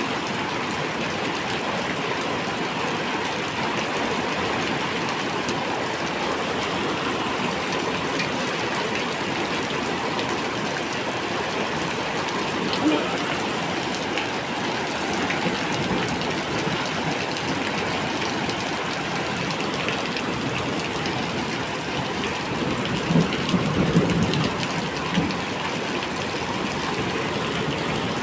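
Heavy rain pouring steadily, with a brief knock midway and a few short thuds near the end.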